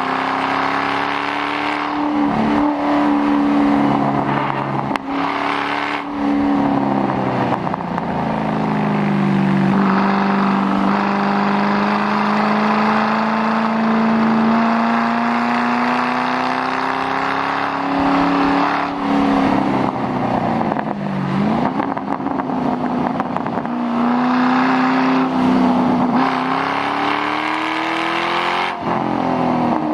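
2006 Mustang GT's 4.6-litre V8 running through a muffler-delete exhaust while being driven hard. The engine note climbs and falls, with several sudden drops in pitch as it shifts gear.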